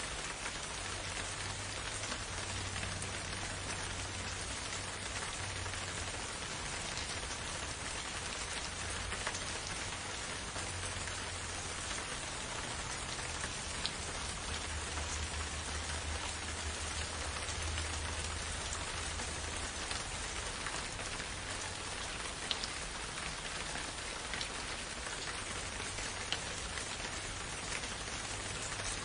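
Steady rain falling on a forest, an even patter with scattered single drop ticks and a low rumble underneath.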